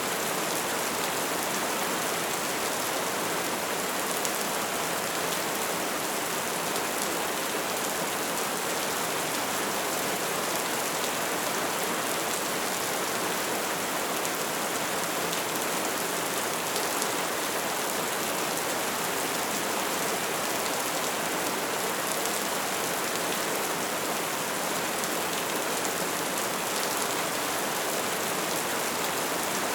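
Wood fire burning with a steady hiss and a dense stream of small crackles and pops.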